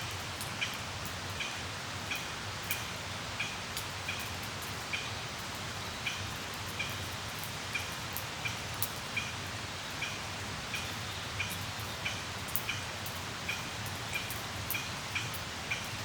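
Wood campfire crackling: a steady hiss with irregular sharp pops and snaps. Short high chirps repeat about once or twice a second alongside.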